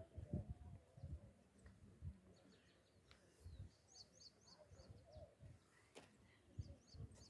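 Faint bird chirping: a quick run of about five short, high chirps about four seconds in and a few more near the end, over faint low rumbles and thumps.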